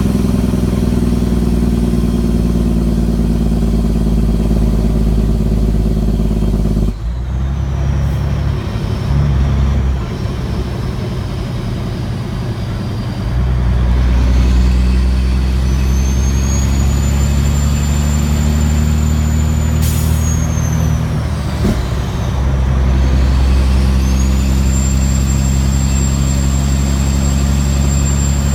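Caterpillar C15 single-turbo diesel in a heavily loaded Kenworth W900L pulling under load. The engine drops off sharply twice as the driver lets off, about a quarter of the way in and again about three quarters in. Each time it pulls again, a high turbo whistle climbs in pitch and then holds as boost builds.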